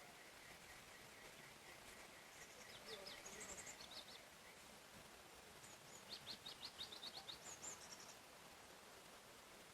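Songbirds singing faintly over a soft forest hiss. A steady run of repeated notes fades out about two seconds in. Two phrases of high chirps follow, the second a quick run of about a dozen notes near the end.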